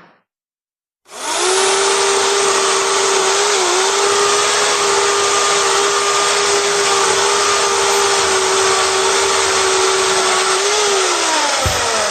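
An electric power tool's motor starts about a second in and runs at full speed with a loud rushing noise and a steady whine, then winds down near the end, its whine falling in pitch.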